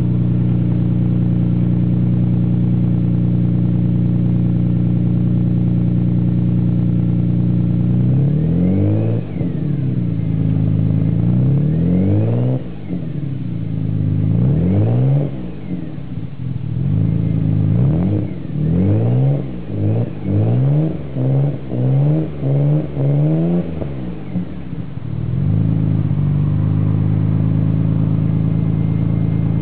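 Nissan Skyline R32 GT-R's twin-turbo straight-six through a Kakimoto exhaust, idling steadily, then revved in a series of quick throttle blips, each rising and dropping back, with a fast run of short blips near the end before it settles back to idle.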